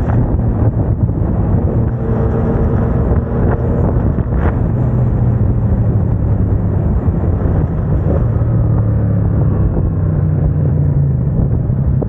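Yamaha MT-07 parallel-twin engine running through a MIVV aftermarket exhaust, steady and loud with small shifts in pitch. A short sharp sound cuts through about four and a half seconds in.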